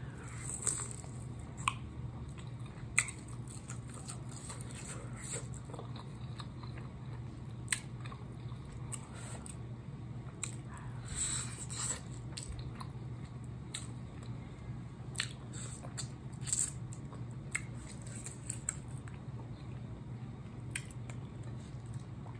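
Close-up wet chewing and biting of sauce-covered chicken wings, with sticky smacking mouth sounds and scattered sharp clicks, over a steady low hum.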